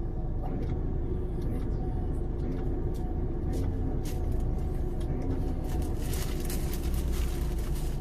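Off-road vehicle engine running steadily at low revs, with scattered knocks and clatter that grow busier in the last couple of seconds.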